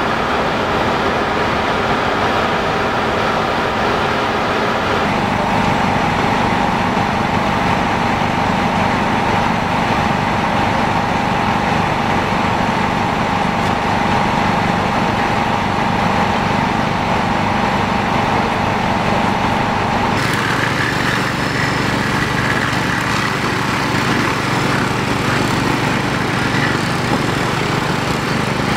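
A small engine running steadily, with a steady whine from about five seconds in. The sound changes abruptly about twenty seconds in and carries on at a similar level with a higher whine.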